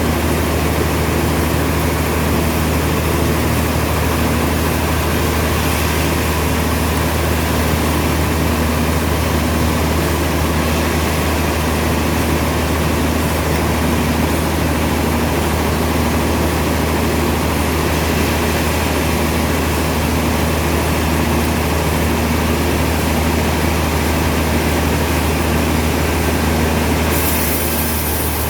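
Heavy sawmill machinery running steadily with a deep, constant hum and a faint regular pulsing, with no sign of a cut through wood. The higher hiss brightens about a second before the end.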